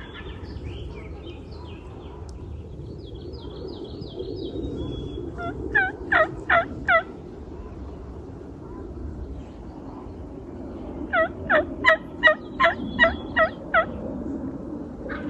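Turkey yelping: a loud series of four evenly spaced yelps about six seconds in, then a longer series of about eight yelps a few seconds later.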